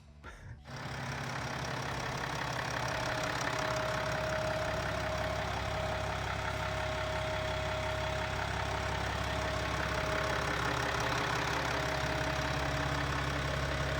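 Rebuilt BMW X5 M50d 3.0-litre straight-six diesel idling steadily, with a steady high whine over the engine note. The sound comes in about half a second in and stays even.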